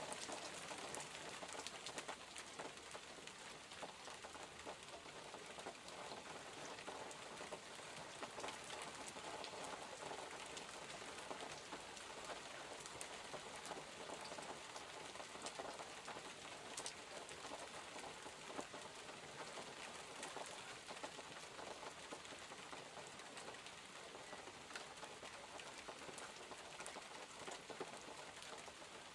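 Steady rain falling: an even hiss with many small, scattered ticks of drops.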